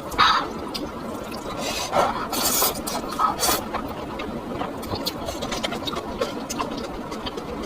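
Close-miked eating sounds: chewing with many small wet mouth clicks and a few louder noisy bursts, the loudest near the start and again about two to three and a half seconds in.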